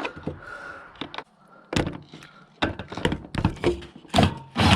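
A string of knocks and clunks from parts and screws being handled while a headlight assembly is fitted, then a power tool starts running loudly just before the end.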